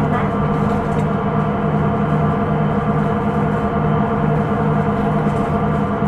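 Hino Rainbow II non-step bus running, heard inside the cabin: a steady drone with a strong low hum that swells and fades about once a second, plus higher whining tones. The recording flags this bus's running noise as abnormal.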